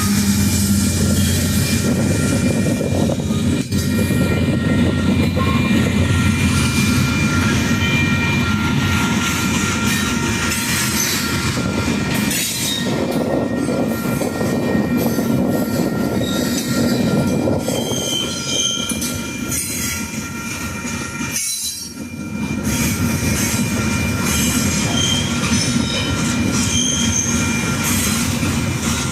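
Freight train rolling past, its steel wheels squealing with several steady and intermittent high tones over the rumble and clatter of the cars. The sound dips briefly about two-thirds of the way through.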